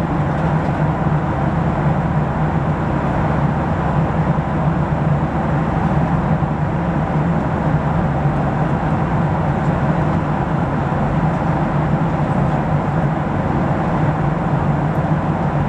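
Steady cabin drone inside a Boeing 737-700 with CFM56-7B engines: engine hum and rushing air noise at an even level, with a strong low hum underneath.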